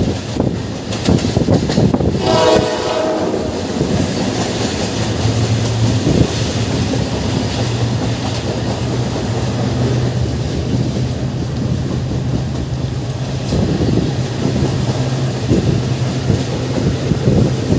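Egyptian National Railways passenger train running on the rails with a steady low drone and occasional wheel clicks over rail joints. About two seconds in, a train horn sounds once, a chord held for a second or so.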